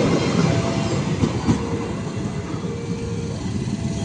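Train passing over the rails, its wheels clattering in a steady rumble that slowly fades as it moves away.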